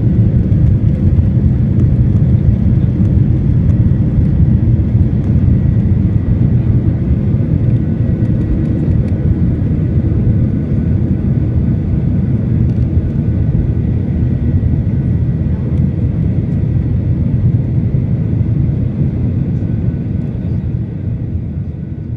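Steady low roar of a Boeing 737-800 in flight, heard from inside the passenger cabin: its CFM56-7B engines and the airflow, with a faint steady whine above, fading out near the end.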